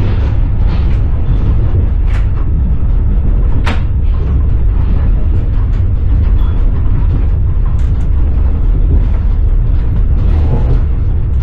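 Passenger train carriage rumbling along the track, heard from inside the carriage, with a few sharp clacks of the wheels over the rails, the sharpest about a third of the way in.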